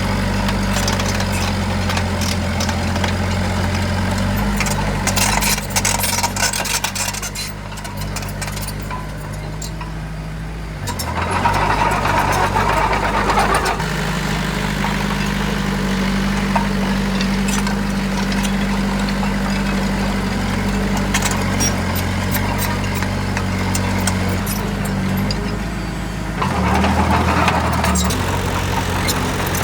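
Heavy diesel engine of construction machinery running steadily, its note shifting a couple of times, with spells of rattling and clatter from the machine working.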